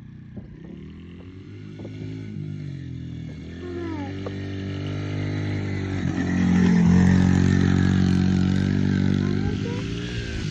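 Small Yamaha 50 cc motorbike engine running as it is ridden, its pitch rising and falling with the throttle. It grows louder through the middle, loudest around six to eight seconds in, then fades a little.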